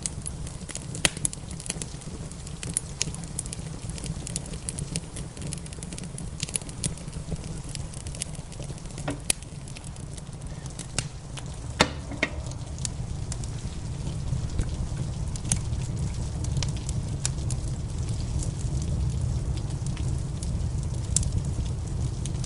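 Wood fire in a fireplace crackling, with irregular sharp pops over a steady low rumble, and rain falling in the background.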